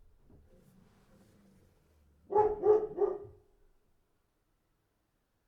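A dog barks three times in quick succession, starting a little over two seconds in.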